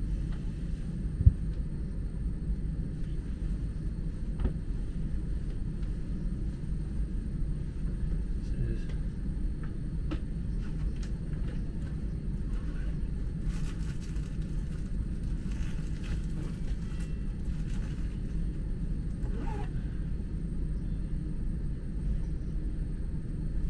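Steady low rumble of a Chinese high-speed bullet train running at speed, heard inside the passenger cabin. A single sharp click comes about a second in.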